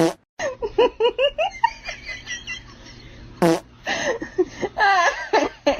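Laughter: a run of short, quick ha-ha bursts starting suddenly, with a sharp sound partway through and more laughing after it.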